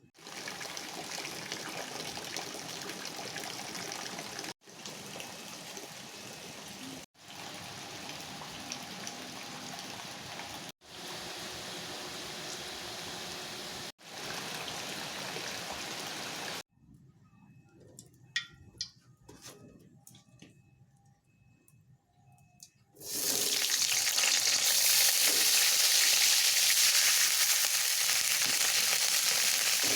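Heavy rain pouring steadily, heard in several short clips cut one after another. After a quieter stretch with a few light knocks, loud sizzling of food frying in hot oil starts about three-quarters of the way in.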